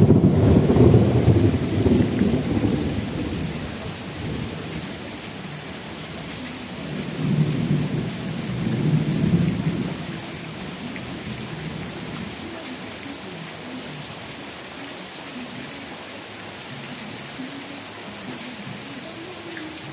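Steady heavy rain with rolling thunder: a deep rumble at the start that fades over a few seconds, and a second roll about halfway through, then rain alone.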